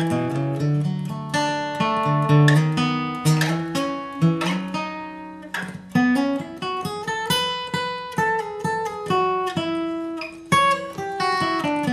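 Acoustic guitar played solo, picking a bluegrass lead line of single notes and short strums with hammer-ons and pull-offs.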